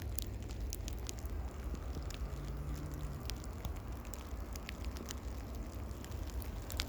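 Scattered light raindrops ticking irregularly on nearby surfaces, over a steady low rumble.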